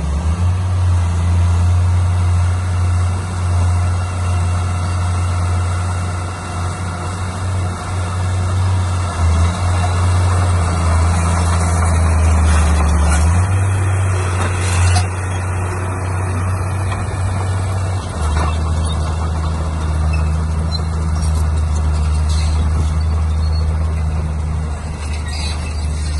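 Heavy diesel earthmoving machinery running steadily with a deep engine hum. About halfway through, a stretch of hissing and clattering ends in a sharp crack.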